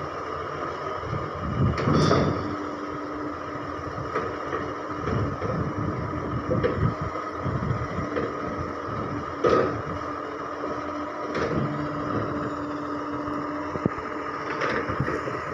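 Garbage truck running with a steady mechanical whine, punctuated by several sharp knocks and clunks, the loudest about two seconds in.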